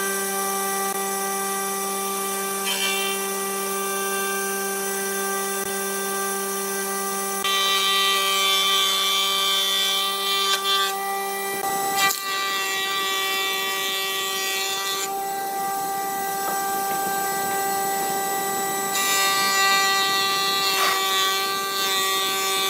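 An electric woodworking power tool running at a steady pitch, with a louder rasping noise coming in twice as it cuts into wood: once for several seconds from about a third of the way in, and again near the end.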